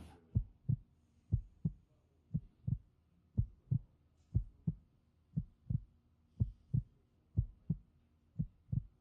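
Heartbeat sound effect: a steady lub-dub double thump, about one pair a second, over near silence.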